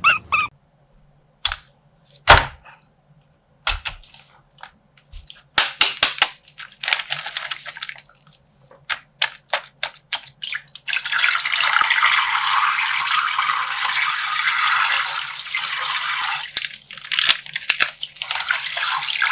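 A plastic slime bag being handled, with scattered sharp clicks and pops and one loud pop about two seconds in. About eleven seconds in, coloured water starts rushing and splashing out of the torn bag, breaking into drips and crackles for the last few seconds.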